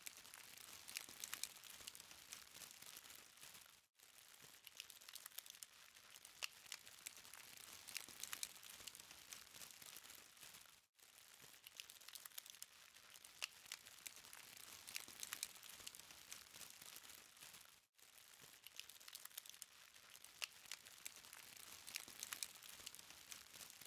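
Charcoal fire faintly crackling and ticking: a soft high hiss dotted with many small sharp pops, cut by brief dropouts three times.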